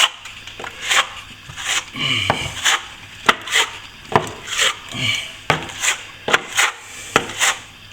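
A plastering float or trowel being worked across wet plaster on a wall in repeated strokes, about two a second, each beginning with a sharp click and sliding into a brief scrape, as the second coat is floated out flat.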